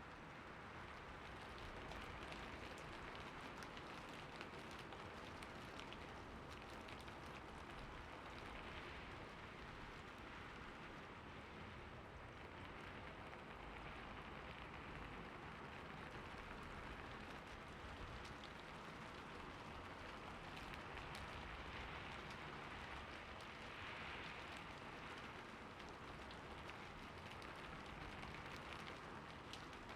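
Steady, gentle rainfall, a soft continuous patter of drops.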